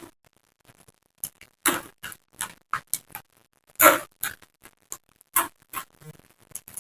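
Close-miked chewing of crisp raw vegetables: irregular crunches, about two or three a second, the loudest about four seconds in.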